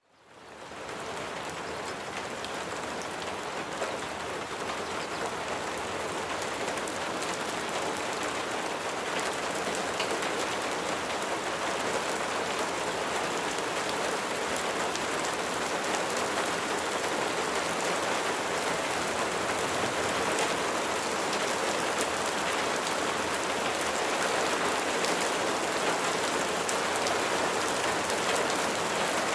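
Steady rain falling, with individual drops pattering on a surface over a continuous hiss. It fades in over the first second and then holds steady, growing slightly louder.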